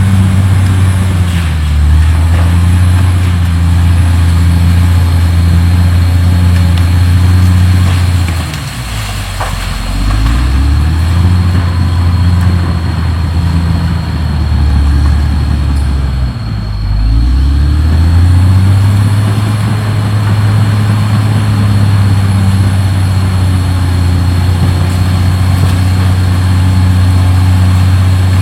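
CAT D6R XL bulldozer's diesel engine running loud and steady. Its engine speed sags and picks back up twice, about a third of the way in and again past the middle.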